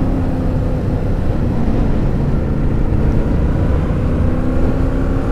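Yamaha FZ-07's parallel-twin engine running under way, with a steady engine note that eases off about a second in and comes back near the end, mixed with wind rush on the rider's microphone.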